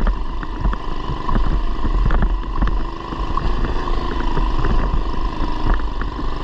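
Coleman BT200x mini bike's 212cc single-cylinder engine running under way, with many short clicks and knocks over a strong low rumble.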